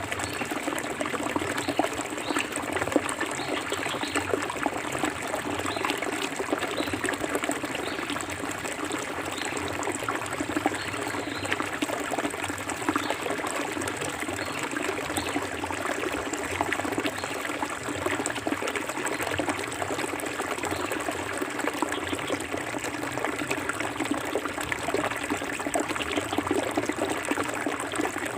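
Clear forest river flowing steadily, its water trickling and splashing over stones with a dense, even babble.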